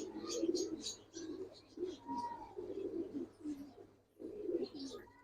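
Domestic pigeons cooing in the loft: repeated low, warbling coos, with a short pause about four seconds in before the cooing resumes.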